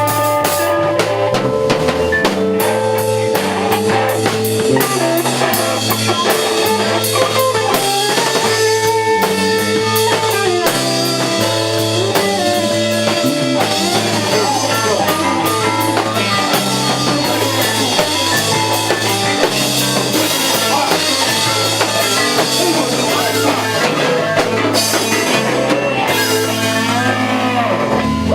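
Live rock band playing an instrumental passage: drum kit keeping a steady beat under electric guitar and a moving bass line. The music stops at the very end.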